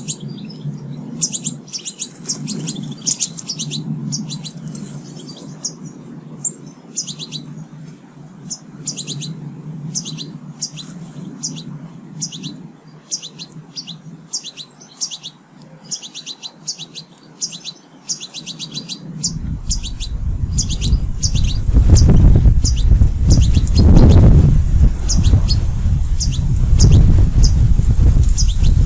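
Small garden birds at feeders chirping, with many short, rapid chirps throughout. About two-thirds of the way in, a loud low rumble starts and stays, louder than the birdsong.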